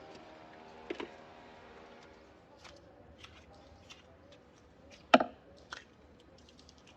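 Light clicks and knocks of hand tools and parts being handled, with one sharp knock about five seconds in. A steady hum with several tones fades out in the first two seconds.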